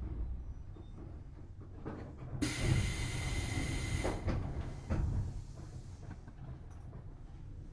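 Tobu Series 6050 electric train coming to a stand: the low running rumble dies away, then a burst of compressed-air hiss about two seconds in lasts under two seconds, followed by a couple of knocks from the train's pneumatic equipment as it stops at the platform.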